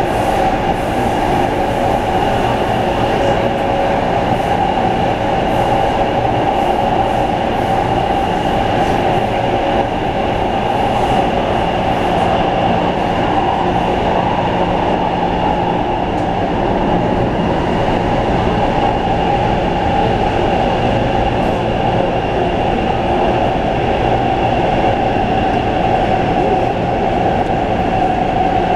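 Train running steadily: an even rumble with a constant high whine, unchanging throughout.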